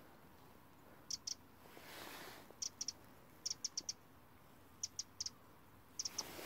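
A small bird calling: short, high chirps in quick groups of two to four, repeated about five times.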